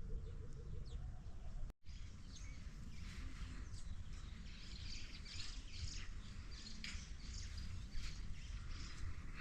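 Many small birds chirping and twittering together over a steady low rumble, with a brief break in the sound just before two seconds in.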